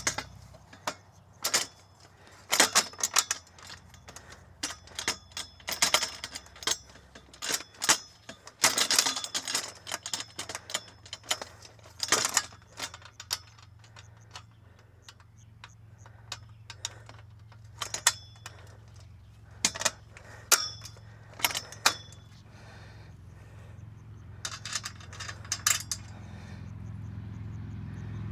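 Metal parts of a steel roof-mount frame clinking and clicking as bolts, nuts and washers are handled and fitted, with irregular sharp taps and a few short ringing metal clinks. A low steady hum runs underneath.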